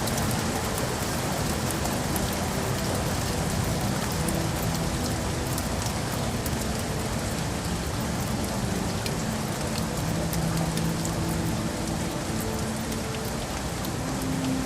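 Steady rain falling in a city, an even hiss with scattered sharper drop taps. Faint low hums come and go underneath.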